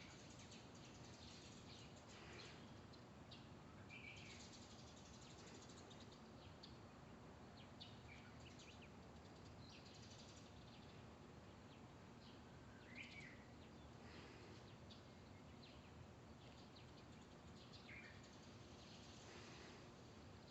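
Birds chirping and calling faintly, short scattered calls and chirps over a steady low hiss, a few clearer calls standing out about 4, 13 and 18 seconds in.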